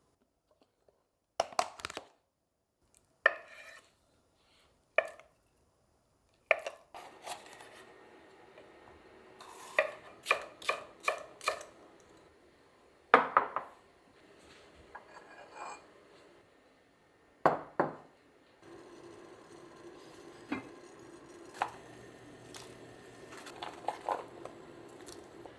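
Kitchen work: scattered sharp knocks and clatters of utensils and food containers on a counter, with a quicker run of strokes at about two a second near the middle. A low steady hum comes in over the second half.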